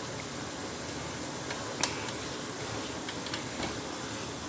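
Steady background hum and hiss with a few faint, light clicks, the clearest about two seconds in.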